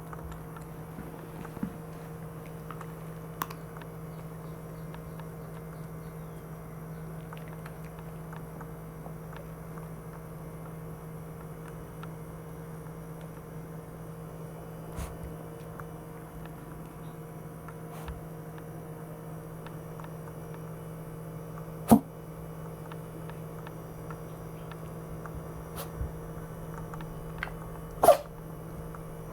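Maltese dog sneezing in short, sharp bursts: a loud one about two-thirds of the way through and another near the end, with a few faint ticks between.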